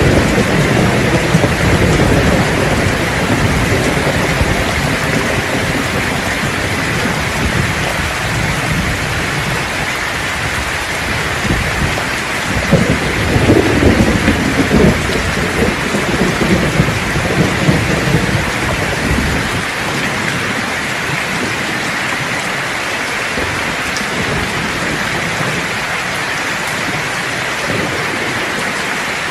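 Steady heavy rain with thunder rumbling underneath, swelling to a louder peal about halfway through. The rumble fades out about two-thirds of the way in, leaving rain alone.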